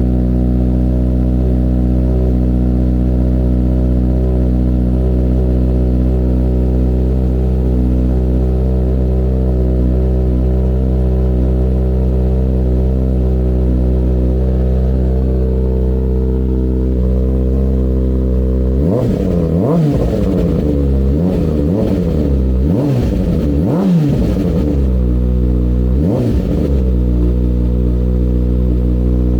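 A 2020 Kawasaki ZX-6R's inline-four idling steadily on a cold start through an Austin Racing GP1 slip-on exhaust with its baffle (silencer) removed, then revved in several quick throttle blips in the last third.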